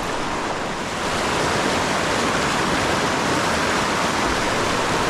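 Fast river water rushing over rapids: a steady, loud rush of water that gets a little louder about a second in.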